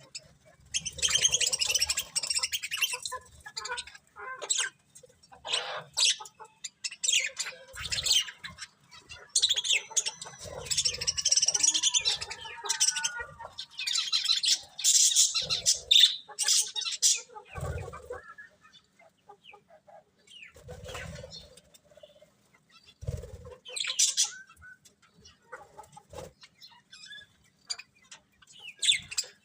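Budgerigars chirping and chattering in quick, irregular bursts, busiest in a few clusters, with a few short low thumps among them.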